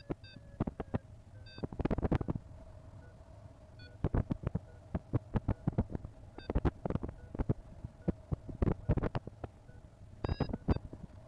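Paragliding variometer beeping in short pitched pips, the pitch shifting from beep to beep, under irregular crackling knocks that come in clusters about two seconds in, through the middle and near the end.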